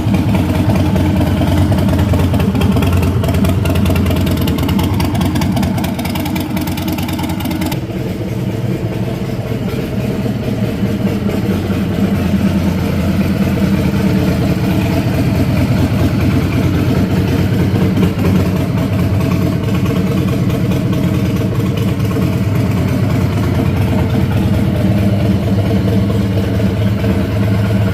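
Harley-Davidson Street Bob's V-twin engine running through a Two Brothers Racing full exhaust, giving a strong, low-pitched exhaust note. The sound shifts about eight seconds in, losing some of its higher hiss.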